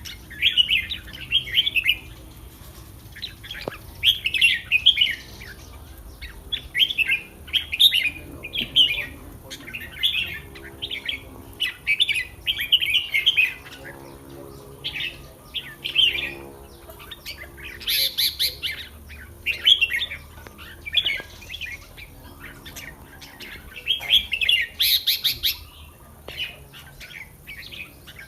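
Red-whiskered bulbuls singing short, bright warbling phrases, one after another every second or two, with a few sharper, louder notes among them.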